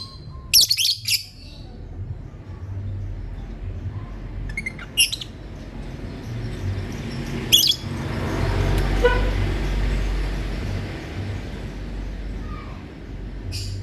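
Lovebird chirping in short, shrill bursts. There is a quick run of calls near the start, then single calls around five seconds, just before eight seconds and near the end, over a low background rumble that swells in the middle.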